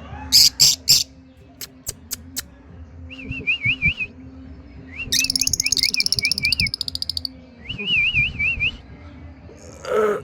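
Lovebirds chirping and chattering. Sharp high chirps come first, then warbling, wavering trills in bursts of about a second, with a dense buzzy chatter around the middle. A brief lower sound comes right at the end.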